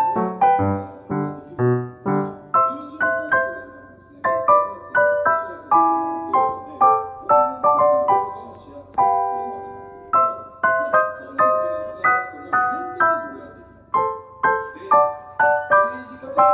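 Background piano music: a gentle melody of single notes and chords played at a steady pace.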